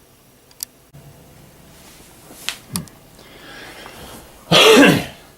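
Camera being picked up and carried by hand: a few sharp handling clicks and a soft rustle. Near the end comes a short, loud burst of a person's voice.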